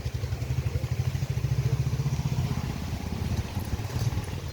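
Strong wind buffeting the microphone, a low fluttering rumble that swells and eases in gusts.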